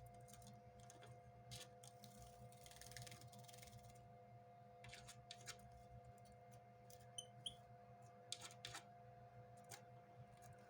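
Faint taps and clicks of a caged siskin moving about at its water bowl, with a short burst of splashing early on and two brief high chirps about seven seconds in. A steady electrical hum runs underneath.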